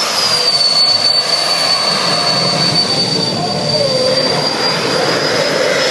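Jet-engined drag car's turbine running: a steady loud roar with a high whine that dips slightly at first, then holds level.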